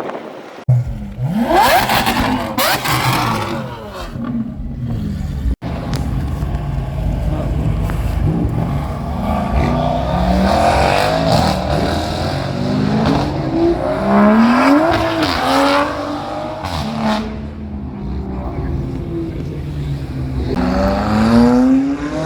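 Car engines revving and accelerating hard, pitch climbing and falling repeatedly, in several short clips joined by abrupt cuts.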